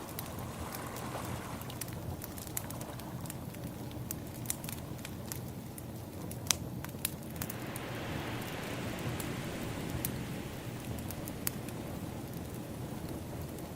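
Crackling wood fire with scattered sharp pops, over a steady wash of sea waves that swells up about eight seconds in.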